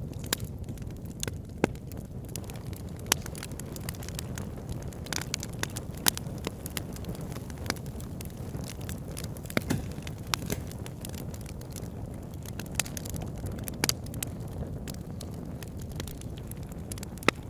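Wood fire burning in a fireplace: irregular sharp crackles and pops over a steady low rumble of the flames, a few pops louder than the rest.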